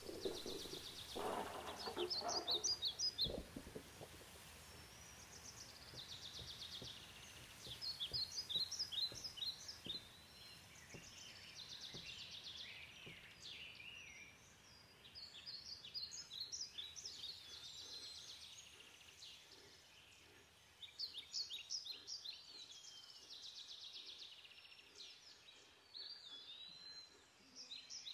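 Songbird singing the same short phrase over and over, about every four to five seconds: a buzzy trill followed by a run of quick sharp notes, over a faint steady background hiss. A few soft low thuds come in the first few seconds.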